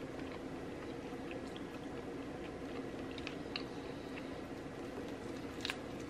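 Soft, wet, squishy eating sounds close to the microphone: scattered small clicks, one louder click near the end, over a steady low hum.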